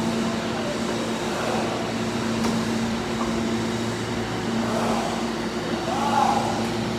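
Steady electrical hum of a train at a station platform, with faint voices over a general background.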